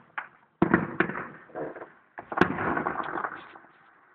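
Fireworks heard from miles away: sharp bangs about half a second and a second in, then a quick run of bangs and crackling about two seconds in that fades out.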